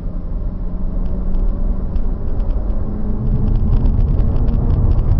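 A car's engine and road noise: a steady low rumble that grows louder about three seconds in, with faint light ticks over it.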